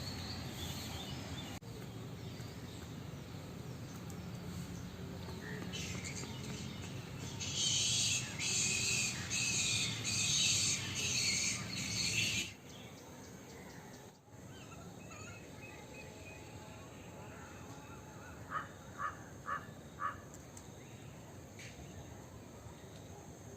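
Outdoor bird calls: a loud run of about six harsh, repeated calls that cut off suddenly, and later four short calls in quick succession over a steady background.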